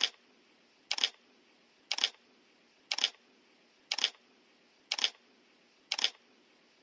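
Camera shutter clicks, each a quick double click, repeating evenly about once a second over near-quiet background.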